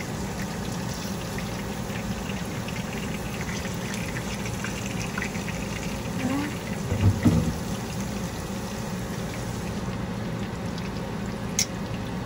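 Breaded chicken cutlets shallow-frying in hot oil in a skillet: a steady sizzle with small crackling pops. A single sharp click near the end.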